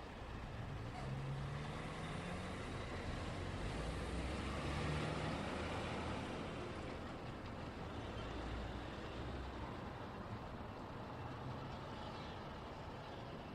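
Road traffic going by, engines and tyre noise, with one heavy vehicle such as a truck or bus passing: the sound builds to a peak about five seconds in and fades after about nine.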